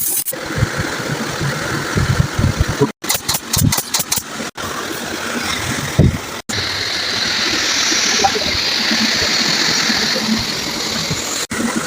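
Steady vehicle engine noise with a low rumble, broken by a few sudden drop-outs where the sound cuts off for a moment.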